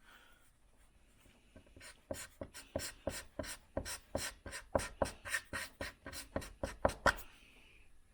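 Felt-tip furniture scratch marker rubbed back and forth over a scratched wooden finish in quick short strokes, about four a second. It starts about a second and a half in and stops near the end.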